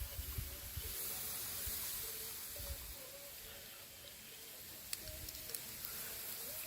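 Quiet outdoor ambience: a steady faint hiss with a few brief low rumbles, faint short tones and a single click about five seconds in.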